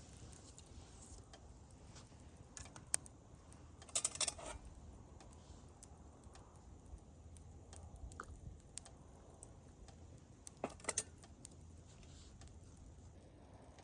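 Campfire of firewood crackling faintly, with sparse sharp pops and a few small clusters of snaps.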